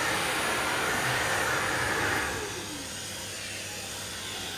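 Vacuum cleaner running with a steady rush of suction. A little over two seconds in it turns quieter and its pitch briefly falls.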